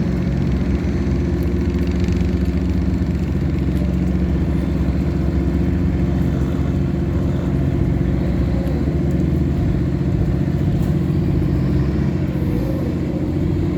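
Tugboat engine running steadily with a deep, even drone while towing a cargo pontoon.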